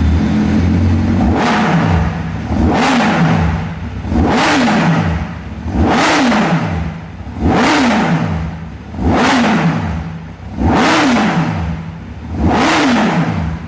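Honda CBR1000RR's inline-four engine being revved through its exhaust, about eight blips in a row roughly every second and a half, each rising sharply in pitch and falling back to idle.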